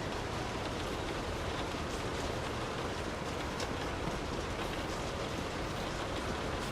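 Steady heavy rain, a dense even hiss with scattered individual drops ticking through it.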